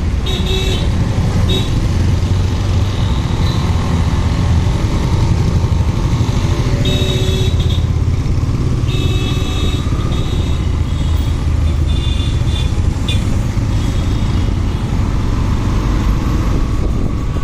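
Motorcycle running on the road, its engine rumble mixed with wind and road noise. Short high-pitched tones come and go several times over it.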